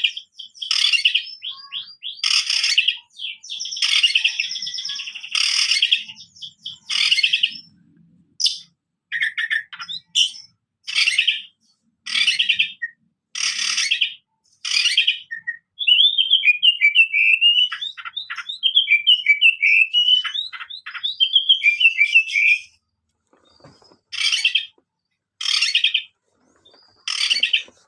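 Oriental magpie-robin of the black 'kacer wulung' form singing loudly: short, rich phrases about once a second. In the middle comes a long run of rapid up-and-down warbling notes lasting several seconds, then more short phrases.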